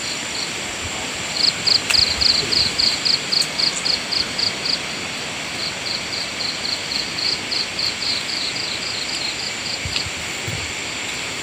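Chorus of insects and frogs: a steady high-pitched trilling, with a pulsing call about four times a second that comes in runs of several seconds, loudest a second or two in.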